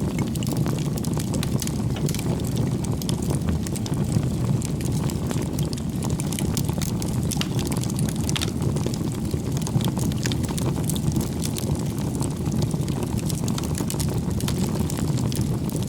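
Wood campfire burning: a steady low rush of flames with frequent small crackles and pops from the burning logs.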